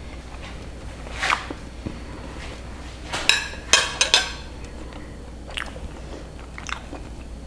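A person chewing a mouthful of braised pork adobo with closed-mouth smacks and short wet clicks, most of them bunched together about three to four seconds in.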